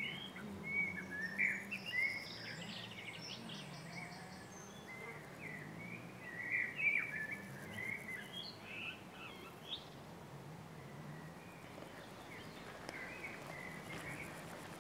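Wild birds singing: many short chirps and quick warbled notes, dense for the first nine seconds or so, then a few more near the end, over faint steady background noise.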